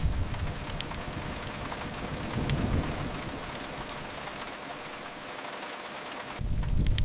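Steady rain hiss against a window with a few sharp crackles from a fireplace. A deep low rumble fades out over the first few seconds and swells back in near the end.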